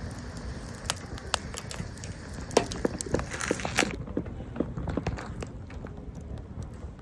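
Firewood burning in a campfire, crackling with scattered sharp pops over a low steady rumble of the flames, and a brief hiss about three seconds in.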